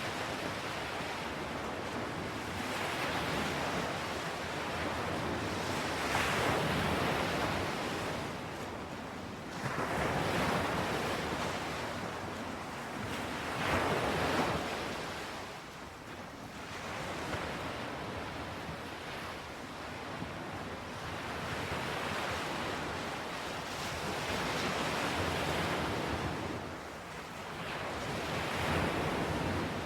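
Ocean waves breaking and washing on a shore, a steady hiss of surf that swells and falls back every few seconds.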